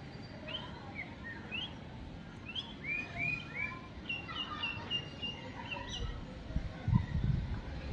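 Birds chirping: short, clear notes that slide in pitch, with a quick run of repeated notes about halfway through, over a steady background hiss. A low rumble comes in near the end.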